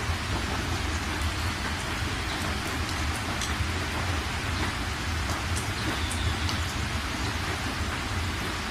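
Heavy rain drumming on a car's roof and windscreen, heard from inside the moving car, a dense steady hiss with scattered drop ticks over a steady low rumble.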